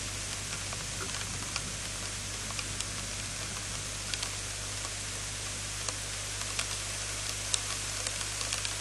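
Rain falling steadily, an even hiss with scattered sharp ticks of single drops striking close to the microphone, over a low steady hum.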